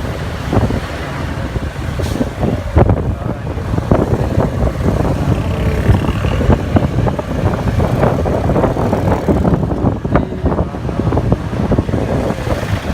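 Motorcycle running along a road, its engine and road noise mixed with wind buffeting the microphone in irregular gusts.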